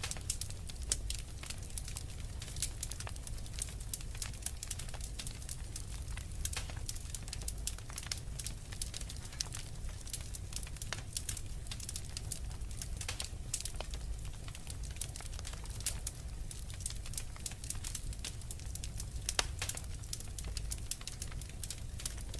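Wood fire crackling in a fireplace: many small sharp pops and snaps, with a few louder snaps, over a steady low rumble of the flames.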